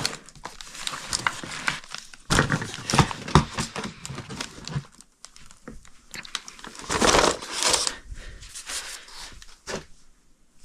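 Light bulbs being handled and rummaged through along with their packaging: irregular crinkling, rustling and small knocks. The loudest bursts come about two seconds in and again about seven seconds in.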